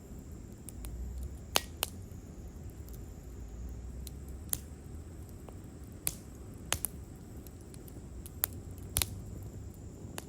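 Wood campfire crackling: sharp, irregularly spaced pops and snaps, about eight of them, over a low, uneven rumble of burning.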